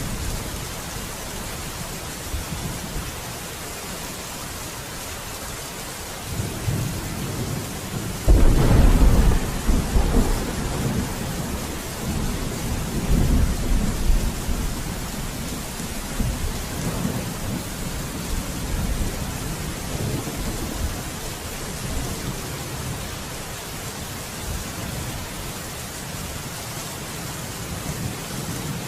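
Steady heavy rain with a thunderclap about eight seconds in, followed by several seconds of rolling rumble that swells again before fading back into the rain.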